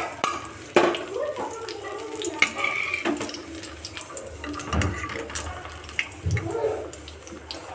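Batter-coated tomato slices sizzling in shallow oil in a metal wok, with a perforated steel spatula scraping and knocking against the pan several times as the slices are turned.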